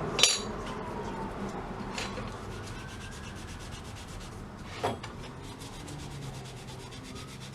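Hand scrubbing of a rusty metal plate with an abrasive cleaning paste: a steady rubbing, broken by a few short knocks near the start, about two seconds in and about five seconds in.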